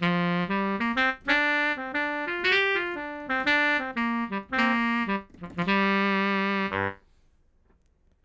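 Sampled tenor saxophone preset from the Bismark bs-16i sound module, played from a keyboard: a short melody of about a dozen notes that ends on a held note and stops about seven seconds in.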